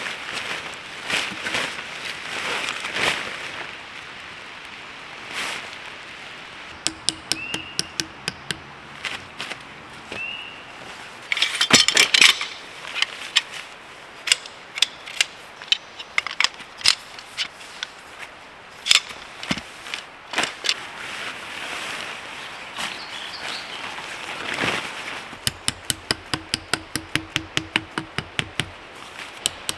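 Sharp knocks in irregular clusters, ending in a run of quick, even strikes about four a second, from something being hammered while camp is set up, likely tent stakes.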